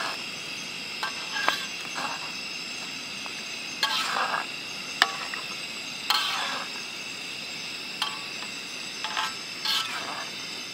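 Food frying in a pan over a campfire, stirred with a utensil: irregular scraping and clinking strokes against the pan, one sharp clink about halfway. A steady high chirring of insects runs behind.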